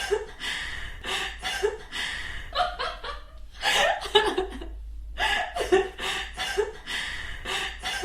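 People chuckling and laughing in repeated short bursts, over a steady low hum.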